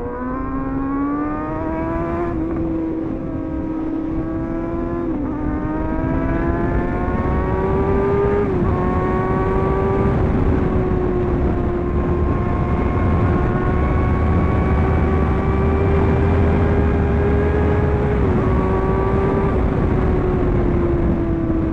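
Sport bike engine accelerating hard up through the gears, its pitch climbing and dropping briefly at each of three shifts, then holding a steady high cruise.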